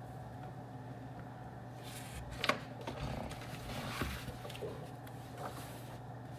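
Steady low hum of room ambience, with a short stretch of light clicks and rustling about two to four seconds in and one more click near the end.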